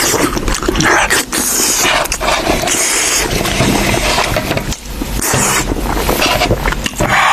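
Close-miked eating sounds of a sheep's head: loud, wet chewing and mouth smacking in irregular bursts.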